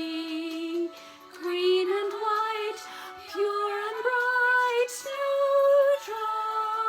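A woman singing a simple children's song in a series of held notes over backing music.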